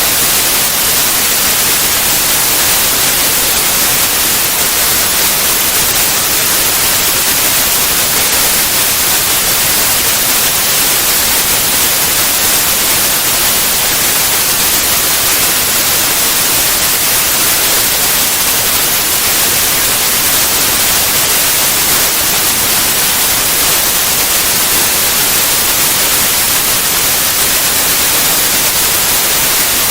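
Steady white noise: an even, unchanging hiss across all frequencies.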